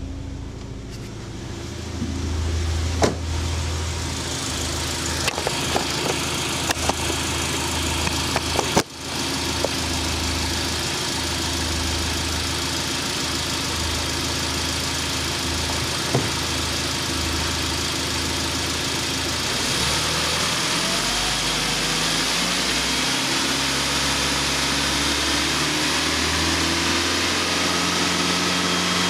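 ZMZ-409 2.7-litre four-cylinder petrol engine running at idle, with a few sharp clicks in the first third. About two-thirds of the way through its speed rises smoothly and then holds steady at raised revs.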